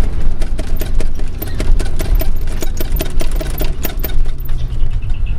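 Hino Space Ranger truck's diesel engine with twin mufflers, heard from inside the cab, running with a fast, even clatter of ticks.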